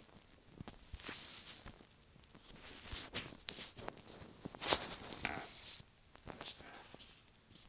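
Latex-gloved fingers tapping and rubbing directly on an earphone microphone: irregular close-up taps, crackles and sticky rubbery rustles, the loudest a sharp scrape a little under five seconds in.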